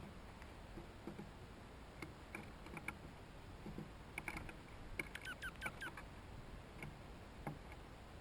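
Small birds at a seed feeder: scattered light ticks and taps. About five seconds in comes a quick run of five or so short, falling chirps.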